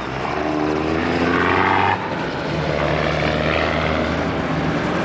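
A vehicle engine revving up with rising pitch, dropping suddenly about two seconds in as with a gear change, then pulling steadily.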